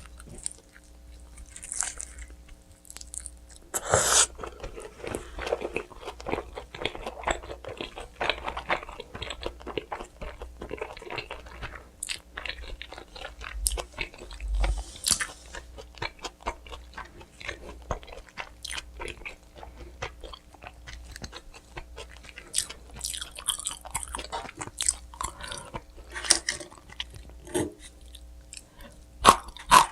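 Close-miked eating of pizza: a loud crunchy bite about four seconds in, then steady chewing with crisp crust crackle throughout.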